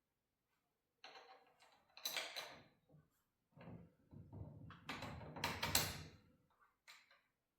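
A run of irregular clunks and scrapes of garage door spring hardware being handled and adjusted, several in a row, the loudest about three quarters of the way through.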